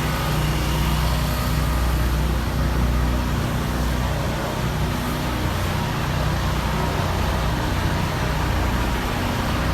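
Diesel engine of a 1999 Kenworth W900 dump truck running steadily with a deep, even rumble.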